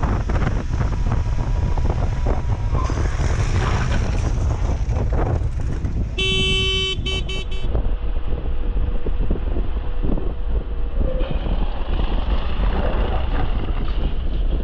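Steady low rumble of wind and road noise while riding. About six seconds in, a vehicle horn sounds: one longer honk, then a few quick toots.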